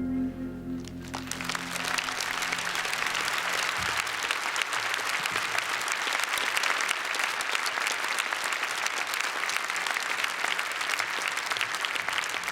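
The last held chord of the song dies away in the first second or so, then the audience applauds steadily.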